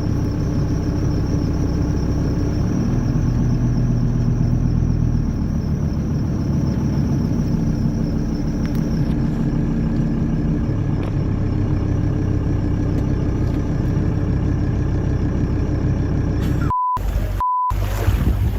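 A steady, low, engine-like drone whose pitch shifts a little now and then, typical of a motor vehicle running. It cuts off near the end, where a short beep sounds between two moments of silence.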